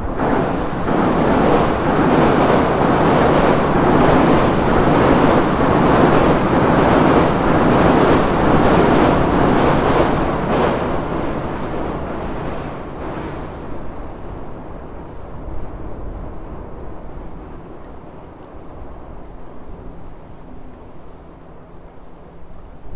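A train crossing the railway bridge overhead: a loud rumble with a regular beat running through it. It dies away over a few seconds from about eleven seconds in, leaving a low, quieter rumble.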